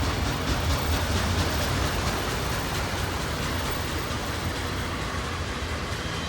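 Union Pacific intermodal stack train rolling past at track speed: a steady rumble and rattle of steel wheels on rail, with a low hum underneath.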